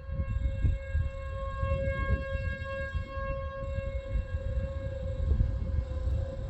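Outdoor tornado warning siren sounding a steady held tone, over a gusty low rumble.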